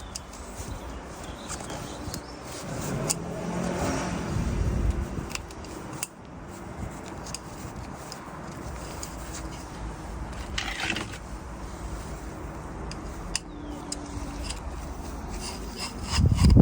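Hands working on the plastic oil filter housing cap and its rubber seals: scattered light clicks, scrapes and rustling as the old seal comes off and the new one is fitted into its groove.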